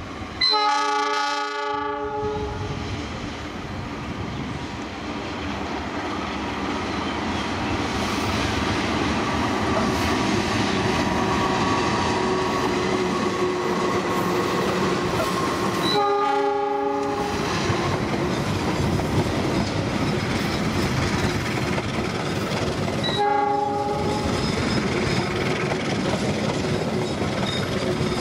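A diesel-electric locomotive hauling a passenger train passes close by, its horn sounding a blast of about a second and a half at the start. A similar horn blast comes about halfway through and a shorter one some seven seconds later, over the steady rumble and wheel clatter of the passing coaches.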